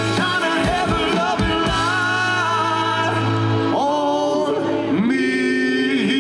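Band music with singing, the voices holding long notes that shift to new pitches about four and five seconds in.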